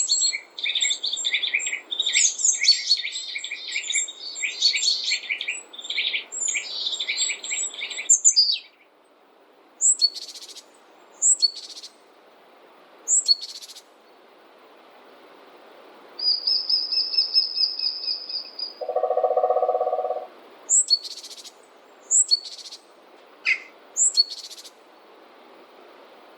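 Small songbirds singing and calling over a faint steady hiss. There is a dense high twittering for the first eight seconds, then single short chirps every second or two, a steady high trill about sixteen seconds in, and a brief lower note about nineteen seconds in.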